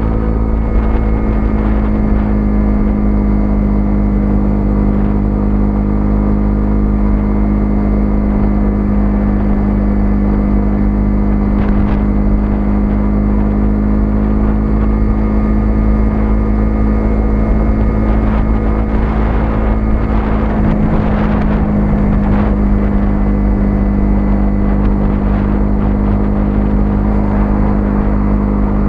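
Single-cylinder 125cc motorcycle engine running at a steady cruise, holding a nearly constant note over a steady low rumble; the note shifts briefly about twenty seconds in.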